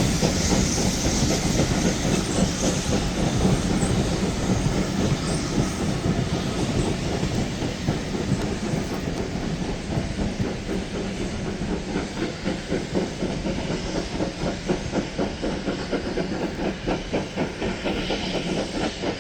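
Steam-hauled train's coaches clattering over the rail joints in a fast, steady clickety-clack, slowly fading as the train moves away.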